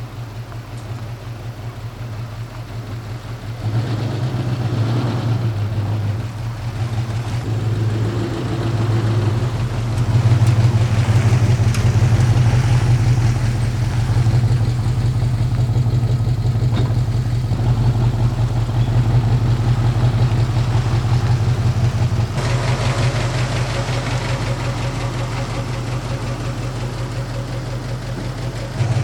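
1967 Ford Mustang's engine running with a steady low drone. It grows louder in steps, about four seconds in and again around ten seconds in, and its sound changes again a few seconds before the end.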